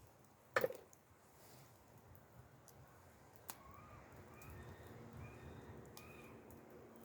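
Wood fire crackling quietly: one loud sharp pop about half a second in and a smaller snap near the middle. A few faint short chirps come near the middle.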